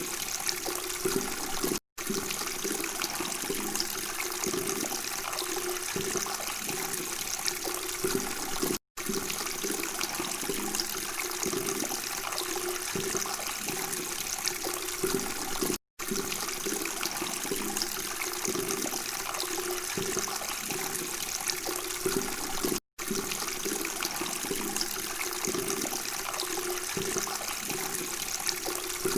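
Steady babbling of running water, broken by a brief silent gap about every seven seconds.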